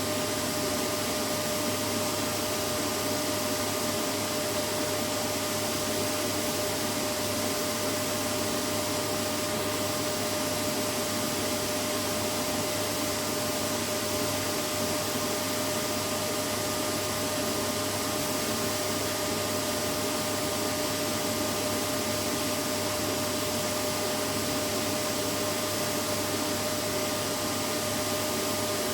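Vacuum cleaner running steadily: an even rushing hiss with a steady motor whine over it, without change.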